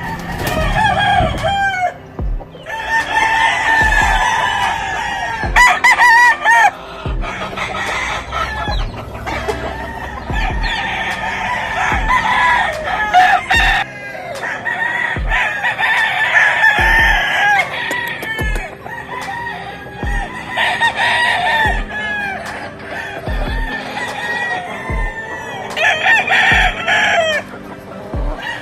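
Many gamefowl roosters crowing one after another and over each other, with some clucking.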